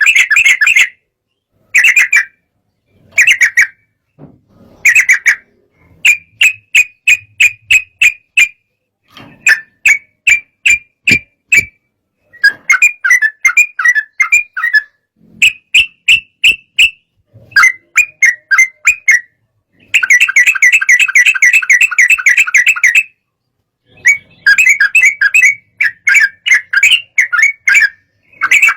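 Yellow-vented bulbul (trucukan) singing in an excited, fired-up state: loud phrases of quick, bubbly chirps separated by short pauses, with one longer unbroken run of rapid chattering notes about two-thirds of the way through.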